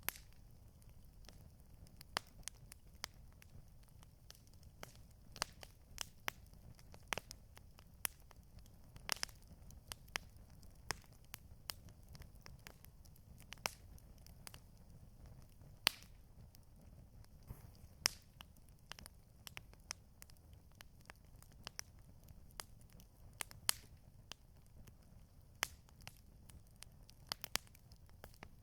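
Wood campfire crackling: irregular sharp pops and snaps, some louder than others, over a faint steady low rumble.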